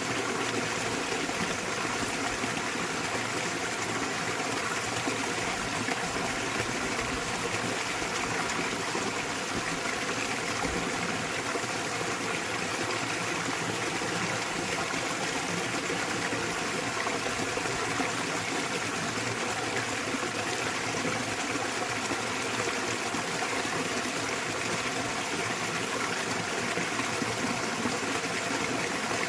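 A small waterfall splashing into a mountain stream, a steady, even rush of falling water.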